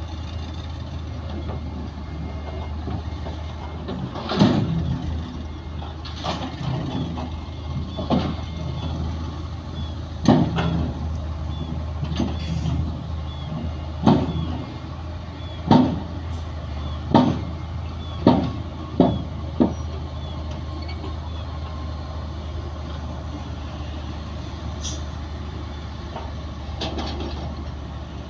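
Bulldozer's diesel engine running steadily, with a series of sharp knocks every one to two seconds through the first two-thirds, then only the steady engine.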